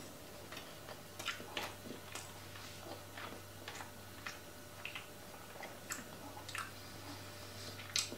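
A person chewing a mouthful of bacon-wrapped chicken breast: soft, irregular wet mouth clicks and smacks, over a faint steady low hum.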